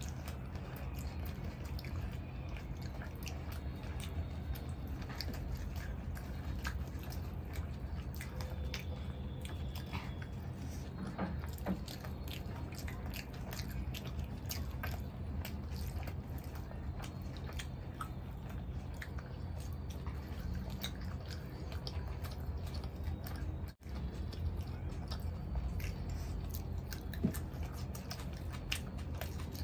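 Close chewing and mouth sounds of people eating soft masala chaap in gravy with naan, many small wet clicks and smacks over a steady low hum.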